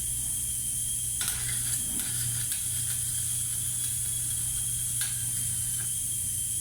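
Electric welding arc hissing steadily over a low hum, with a few short crackles.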